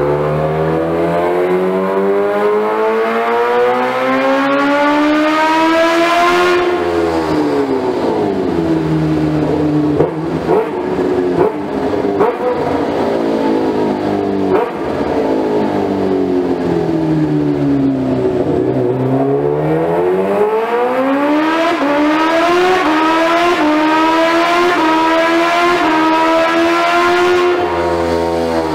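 Kawasaki Ninja H2R's supercharged inline-four engine being run up on a dyno. It climbs steadily in pitch for about six seconds and drops back, runs lower and uneven with a few sharp cracks, sinks further, then climbs again for about eight seconds before dropping off near the end.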